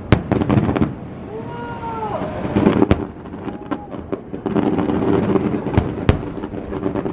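Aerial fireworks going off: four sharp shell bursts with dense crackling between them. A brief pitched tone rising and falling comes about one and a half seconds in.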